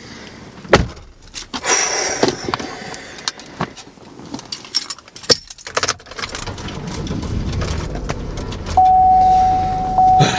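Keys jangling, with scattered clicks and rattles. Then a low car engine rumble builds, and a single steady electronic tone starts near the end and holds.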